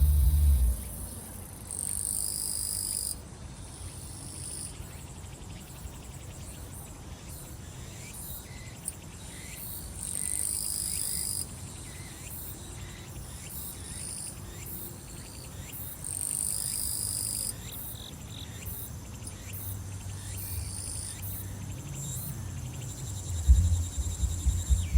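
Summer insects singing. A high, buzzing song comes in bursts of about a second and a half, roughly every six to seven seconds, over a faint, fast ticking chorus. Music with a thumping bass is heard in the first second and again from about a second and a half before the end.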